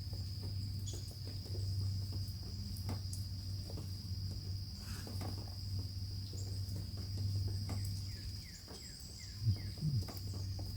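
Steady high-pitched chorus of crickets or similar insects, over a low steady hum, with a few faint short chirps scattered through.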